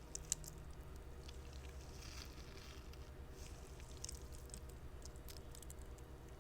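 Squishy spider fidget toy being squeezed and handled: faint squishing with scattered small clicks and crackles, one sharper click right at the start, over a steady low hum.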